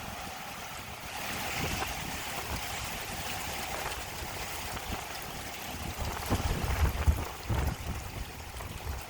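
Strong wind rushing steadily, with gusts buffeting the microphone in a few low rumbles in the second half.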